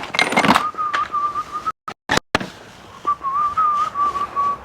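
A man whistling a wavering tune in two short phrases, with a short gap between them, after a brief bit of noise at the start.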